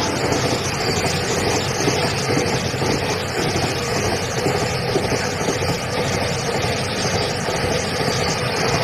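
Container freight train's wagons rolling past alongside: a steady rumble and rattle of steel wheels on rail.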